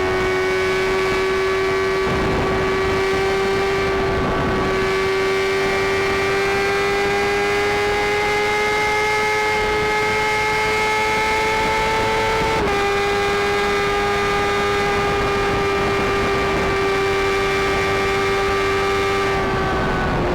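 Sportbike inline-four engine running at steady high revs, its pitch rising slowly, then dropping a little about twelve and a half seconds in and easing lower, with wind rush over it.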